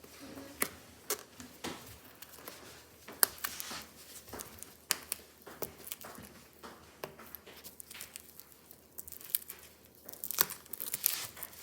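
Plastic shrink wrap on a DVD case being picked at and torn off, crinkling with irregular sharp crackles, thickest near the end.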